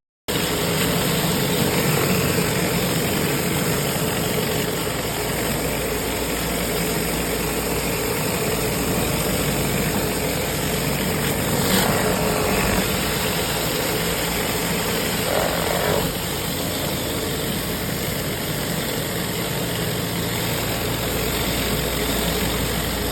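Pressure washer's engine running steadily under the hiss of the high-pressure water spray. The sound dips slightly about two-thirds of the way through.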